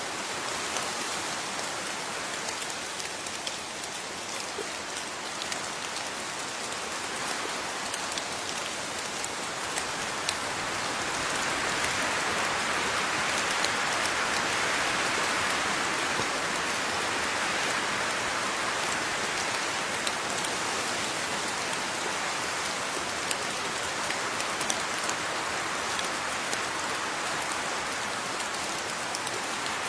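Steady rain falling, with many separate drops ticking on a surface. The rain swells slightly heavier about a third of the way in and stays so.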